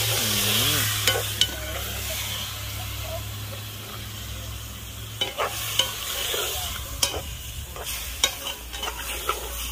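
Curry chicken back frying in hot oil in a metal pot, sizzling steadily while a spoon stirs it, with scattered sharp clicks of the spoon against the pot.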